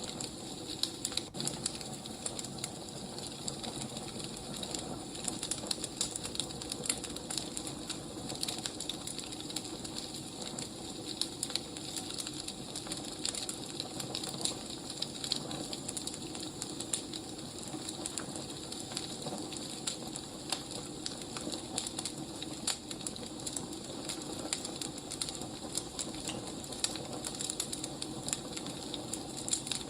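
Burning firewood crackling: a steady hiss with many small irregular pops and snaps.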